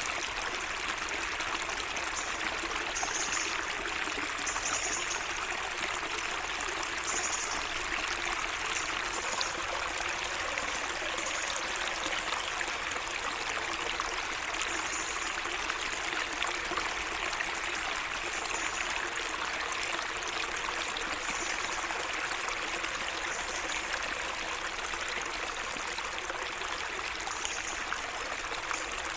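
A small garden stream trickling and splashing steadily. Short, faint high chirps from a bird come every second or two.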